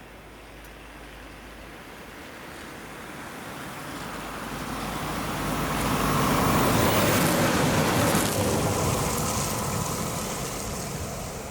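A train passing by, its rumble growing louder to a peak about seven seconds in and then fading away.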